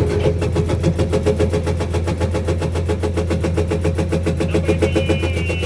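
Komatsu PC210 excavator running with its hydraulic breaker hammering in a rapid, even rhythm of about nine blows a second over the steady diesel engine. A faint high whine joins near the end.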